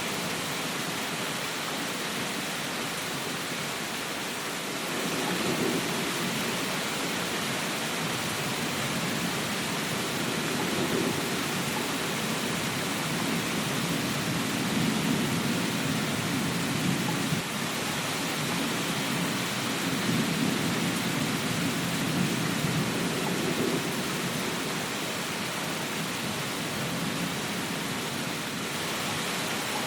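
Steady rain, with a low rumble that swells and fades every few seconds.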